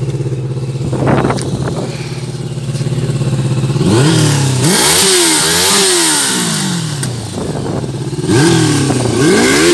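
Honda CBR600 inline-four motorcycle engine, fitted in a road buggy, running steadily, then revved up and down in several quick rises and falls about four seconds in and again near the end.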